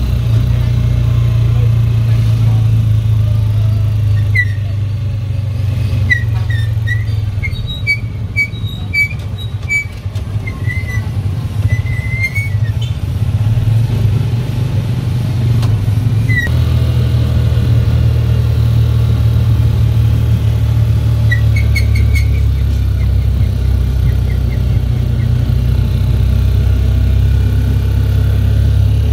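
Motorcycle engine of a Philippine tricycle (motorcycle with sidecar) running steadily under way as a low drone. From about four to thirteen seconds in there is a run of short, high squeaks, with a few more later.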